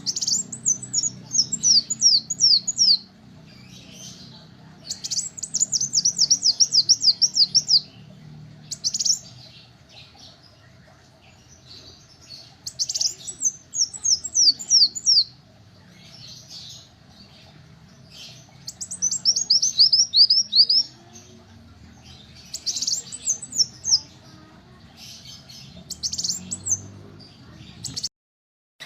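Kolibri wulung, a small sunbird, singing: runs of rapid, high, falling notes, each run two to three seconds long and coming every few seconds, with softer twittering between, over a faint low hum. The song cuts out briefly near the end.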